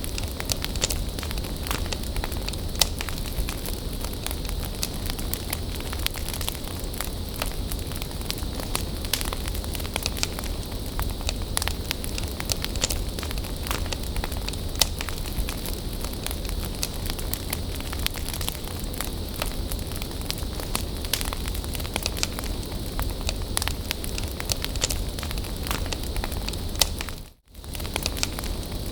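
Wood bonfire burning, crackling steadily with many sharp pops over a low rumble. The sound cuts out for a split second near the end.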